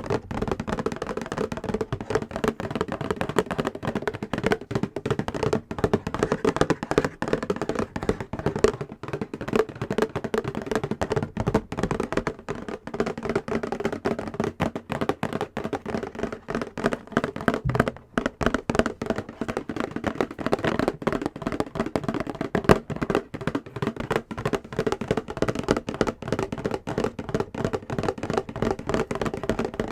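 Fast fingernail tapping on a box, many quick taps a second, with a brief pause about 18 seconds in.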